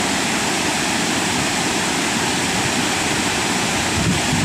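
Steady rushing of fast-flowing river water, with a dull thump near the end.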